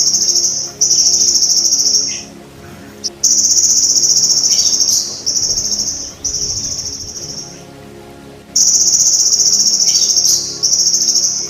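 Golden grasshopper (belalang emas) trilling: a loud, high, buzzing trill in repeated bouts of about one to two seconds, with short breaks between them.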